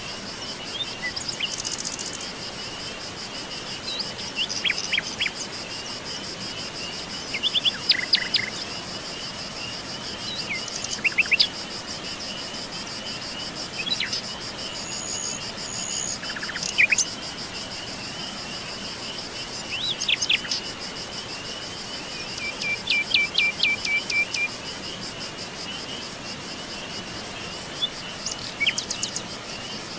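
Songbirds chirping and calling in short scattered phrases, one giving a quick run of repeated notes about two thirds of the way through, over a steady high-pitched insect trill.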